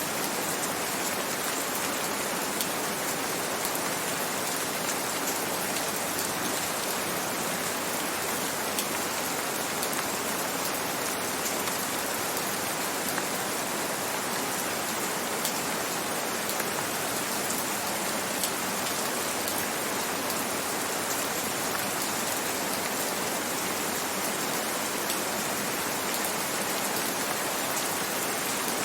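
Steady, even rain, with scattered small drop ticks.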